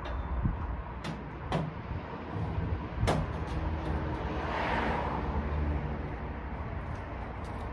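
A few sharp metallic knocks and a scraping slide, over a low steady rumble: engine parts being handled while a cylinder head is worked off its block.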